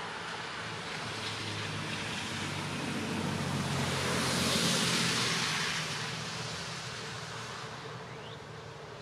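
A car passing on a nearby road: tyre and engine noise that rises to its loudest about halfway through, then fades away.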